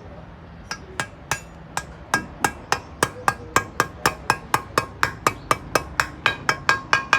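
Hammer striking a metal part over and over, each blow ringing. A few spaced blows come first, then a steady run of about four a second.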